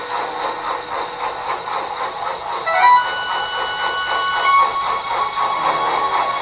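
Steam locomotive puffing steadily, about three chuffs a second, with a short whistle a little before halfway through.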